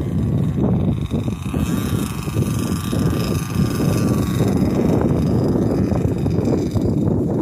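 Wind buffeting the microphone, the loudest sound, over the faint whine of a gas-powered RC airplane's engine in flight, its pitch rising and falling once about two seconds in.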